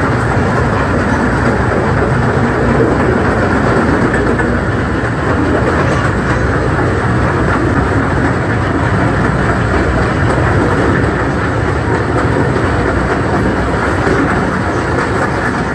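Zoo tour train running on its track, heard from aboard a passenger car: a loud, steady rumble of wheels and running gear.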